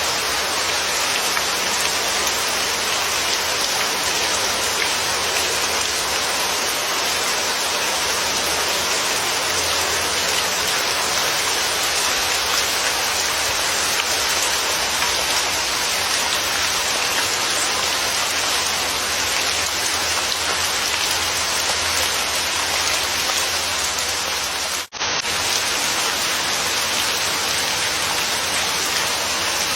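Steady, dense rain falling, an even hiss of drops, with a very brief gap about 25 seconds in.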